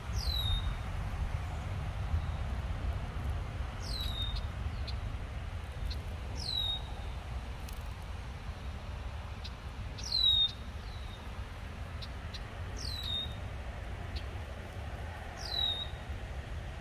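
A songbird repeating one short, high call that slurs down in pitch, six times at intervals of a few seconds, over a steady low rumble.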